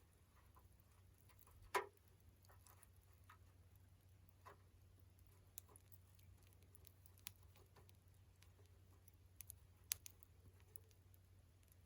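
Wood in a campfire crackling faintly, with a few sharp pops spread out, the loudest about two seconds in and near the end, over a steady low hum.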